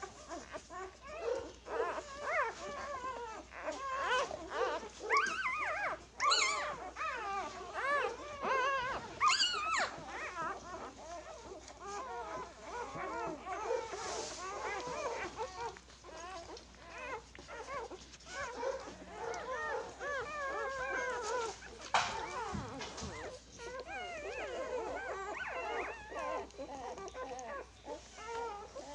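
Two-day-old Labrador retriever puppies whimpering and squeaking, short high cries overlapping one another without pause. There is a single sharp click near the end.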